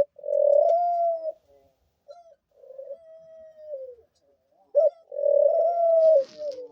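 Pet dove cooing: a short note, then three long coos, each ending in a slight falling slide, the middle one softer, with a brief rustle near the end. The owner thinks the hen is pining for a mate.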